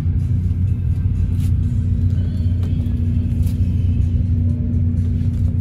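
Inside a moving Philippine Rabbit bus: a deep, steady rumble of the engine and road with an even hum, and a few faint rattles from the cabin.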